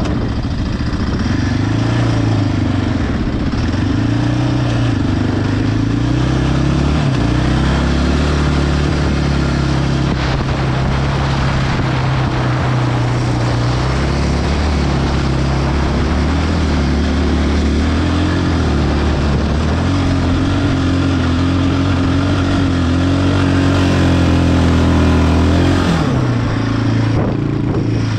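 Yamaha Raptor ATV's single-cylinder four-stroke engine pulling hard under load on a hill climb, its revs rising and falling with the throttle, then dropping back toward idle near the end.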